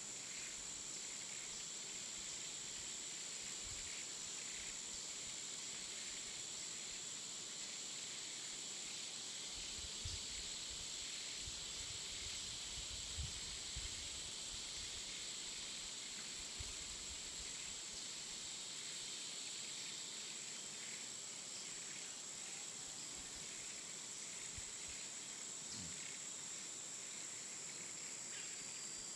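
Woodland ambience dominated by a steady, high-pitched insect chorus, a constant shrill whine over a soft hiss. A few soft low thumps come between about ten and seventeen seconds in.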